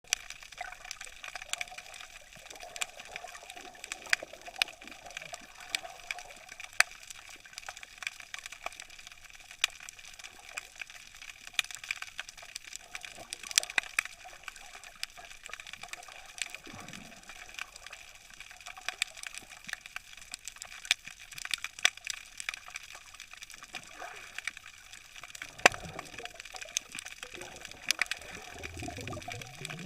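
Underwater ambience: a steady hiss with many sharp, irregular clicks crackling through it, and a few low water swishes, one about halfway through and more near the end.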